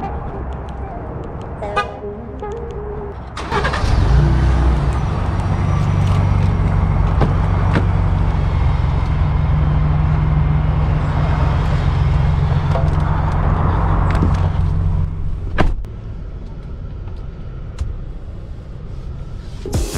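Vehicle engine running with a steady low drone. It swells loud about three and a half seconds in and drops back to a quieter level about fifteen seconds in.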